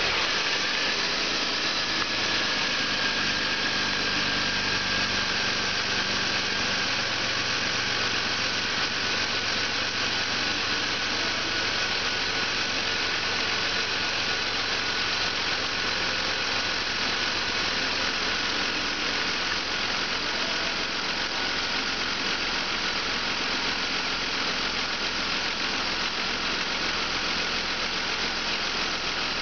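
BMW 528i engine idling steadily on a test run, with a thin high whine running over the idle.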